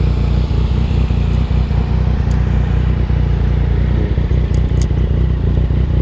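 Motorcycle riding along at a steady speed: engine running under a heavy, steady wind rumble on the microphone, with a few faint ticks near the end.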